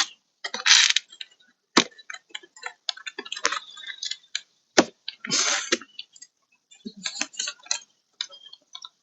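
Irregular clicks, taps and small rattles of hard plastic, with two brief scraping rustles, one about a second in and one past the middle. It is the sound of hands working window regulator cables through the plastic parts inside a Lexus SC430 door.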